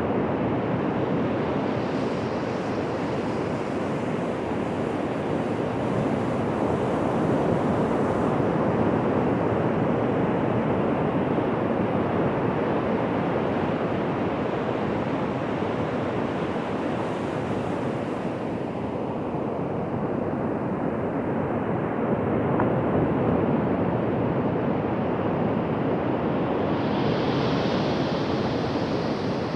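Ocean surf: waves breaking and washing on a beach as a continuous rushing noise that swells and eases slowly.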